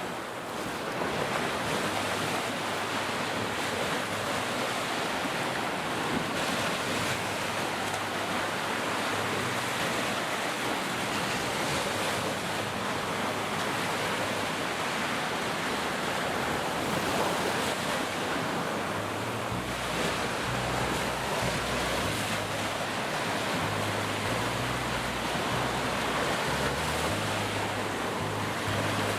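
Ocean surf: a steady wash of waves breaking and rolling in. From about two-thirds of the way through, a low, uneven rumble of wind buffeting the microphone joins it.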